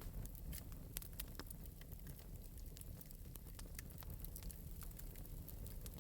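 Wood fire crackling in an open metal fireplace: irregular sharp pops and snaps over a soft low rumble of the flames.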